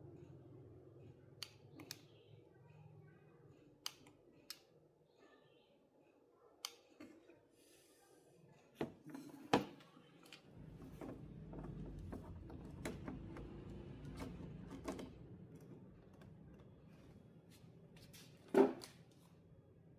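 Workbench handling sounds: scattered light clicks and taps of tools and parts being picked up and set down. A low hum runs for several seconds midway, and a louder knock comes near the end.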